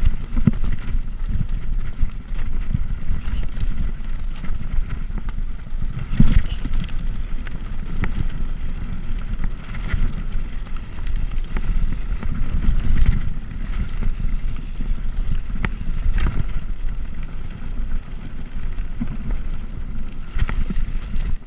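Wind buffeting the microphone of a camera riding along on a bicycle, a loud, steady low rumble, with a few sharp knocks from bumps or rattles.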